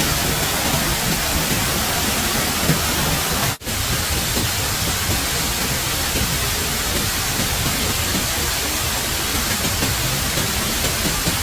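Steady rushing water noise, broken once by a brief cut about three and a half seconds in.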